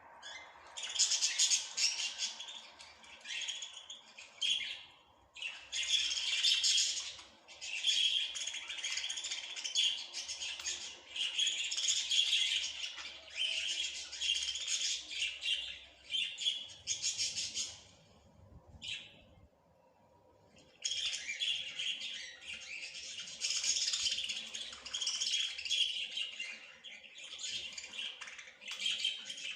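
Small songbirds twittering and chirping in quick, rattling trilled phrases of a second or two each, with short breaks and a longer pause a little past halfway. A faint steady hum runs underneath.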